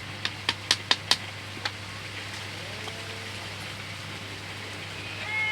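About six sharp clicks in quick succession in the first second and a half, from cage parts being fitted together by hand. A pitched, bending call starts near the end.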